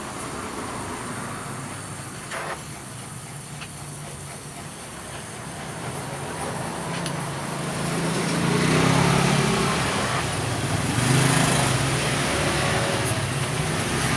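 A motor vehicle engine running, growing louder in the second half with two swells where its pitch rises and falls.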